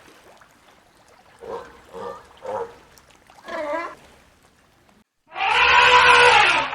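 A few short, whimpering dog yelps, then, after a sudden cut about five seconds in, a loud, long goat bleat.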